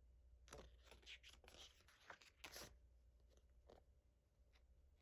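Faint rustling of paper as the pages of an album's photo book are turned and handled, in a series of short scuffing strokes.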